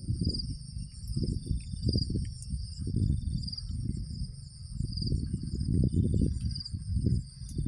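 Crickets calling in a steady high trill that swells in regular pulses, over irregular low rumbling bumps.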